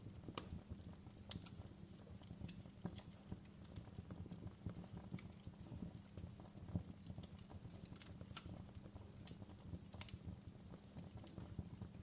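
Wood fire crackling in a fireplace: irregular small pops and snaps, a few sharper than the rest, over a soft low rumble of the flames.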